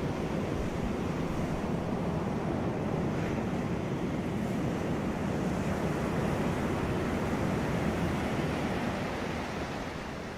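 Sea waves washing onto a beach, a steady rushing surf that eases off near the end.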